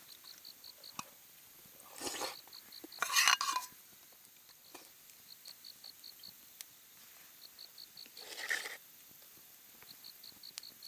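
A few clattering handling noises, like camp cookware being moved, loudest about three seconds in and again near the end. Behind them, a high insect chirps in short, evenly spaced trills.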